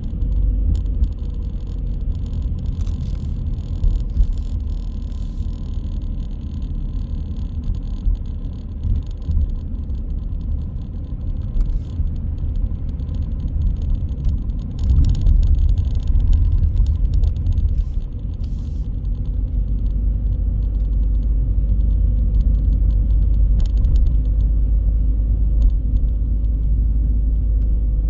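A car driving through city streets: a steady low road and engine rumble with a faint hum, and occasional light clicks and knocks. About two-thirds of the way in, the rumble becomes steadier and a little louder.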